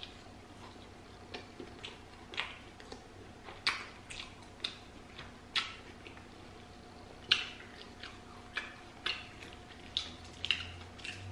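Close-miked eating sounds: a chicken sandwich with lettuce being chewed, irregular wet clicks and crackles, the louder ones about a second apart.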